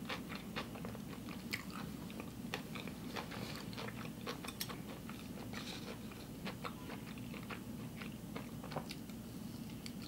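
A person chewing food, with frequent small wet clicks and crunches as she eats.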